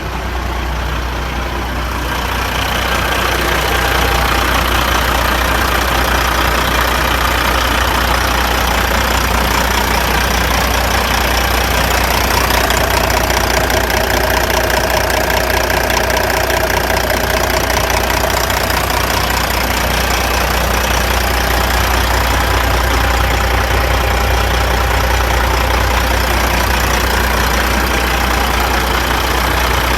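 Diesel engine of a 1999 Kenworth W900 dump truck running steadily, growing louder over the first few seconds and then holding even.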